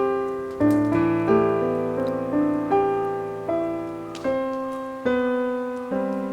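Background piano music: a gentle piece of struck chords, each note fading before the next, about one or two a second.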